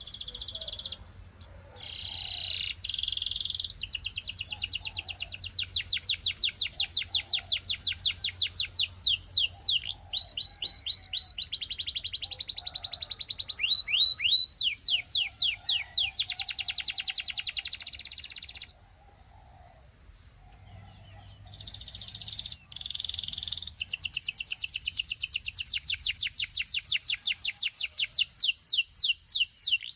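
Russian singing canary in song: long runs of rapidly repeated trilled notes and rolling phrases, broken by brief pauses. It falls quiet for a couple of seconds about two-thirds through, then starts up again.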